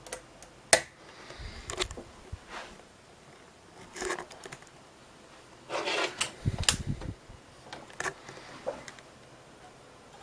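Hands setting up an external optical drive: a string of irregular clicks, knocks and short rustles, the loudest a sharp click about a second in and a busy cluster of clicks and dull thumps around six to seven seconds in.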